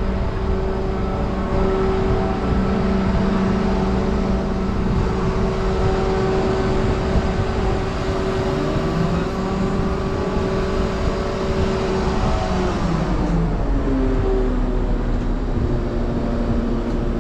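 Large crane's diesel engine running at high revs during a lift, its pitch dropping about 13 seconds in as the revs come down, then running on at the lower speed.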